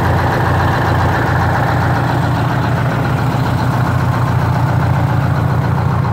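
Detroit Diesel 8V71 two-stroke V8 diesel engine idling steadily.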